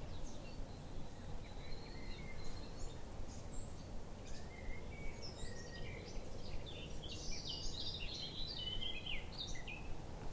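Songbirds chirping and trilling over a steady low background rumble of outdoor ambience, the birdsong busiest in the second half.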